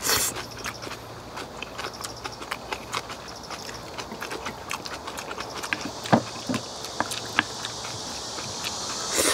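Close-up eating sounds of cabbage kimchi and rice being chewed: a quick, irregular run of wet clicks, smacks and crunches.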